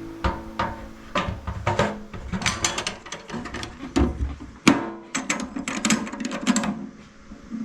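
Irregular sharp clicks and knocks, several a second, some with a short ring, as the tail of background music fades out at the start.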